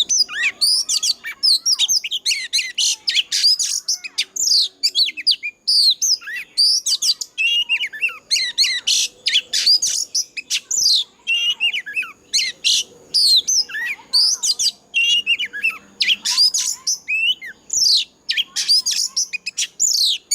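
Oriental magpie-robin singing a fired-up, competitive song: a rapid, almost unbroken stream of varied whistles, slurred notes and chirps with only brief gaps.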